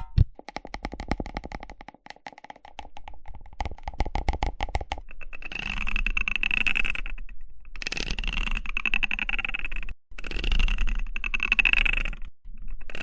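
Rapid fine clicking for a few seconds, then a zipper being drawn back and forth in long strokes with short pauses between them.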